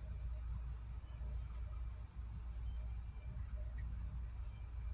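Insects trilling steadily in one high, unbroken note, over a low hum.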